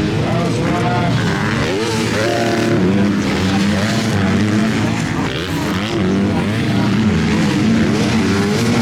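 Several MX2 motocross bikes racing, their engines revving up and easing off again and again as they ride the track.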